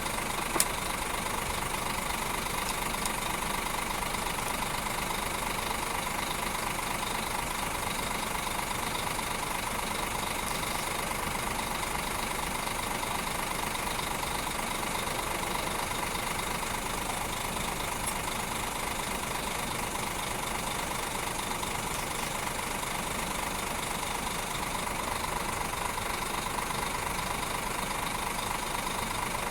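Scania G 410 truck's 13-litre straight-six diesel engine idling steadily while the truck stands, with one short click about half a second in.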